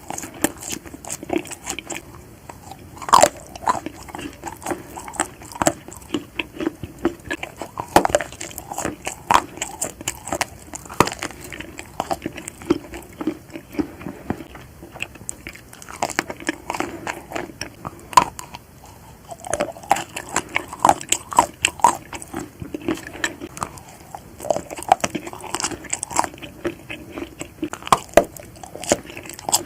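Close-up eating of chocolate-coated marshmallows: biting and chewing, with many small crackles and clicks and a louder bite every second or two.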